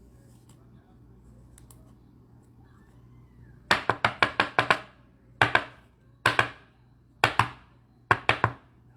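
A series of sharp clicks or taps, starting about four seconds in: a quick run of about six, then single ones spaced about a second apart, and three quick ones near the end, over a faint steady room background.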